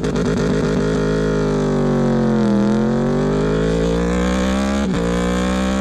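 Motorcycle engine running at steady high revs, its pitch dipping a little about two and a half seconds in and climbing back.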